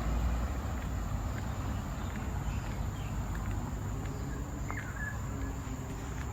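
Tropical forest ambience: a steady high-pitched insect drone over a low rumble, with a brief bird chirp about five seconds in.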